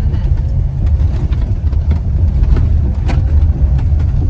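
A road vehicle on the move: a steady low engine and road rumble, with a few light knocks and rattles.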